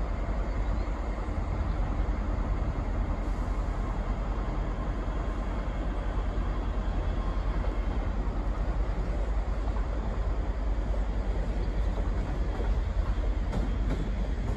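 ScotRail Class 385 electric multiple unit pulling out of the station, a steady rumble of the train running along the track.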